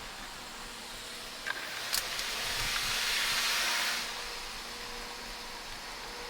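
Steady running noise inside a 700 series Shinkansen car, with two sharp clicks about a second and a half in and a louder hiss that swells for about two seconds in the middle before settling back.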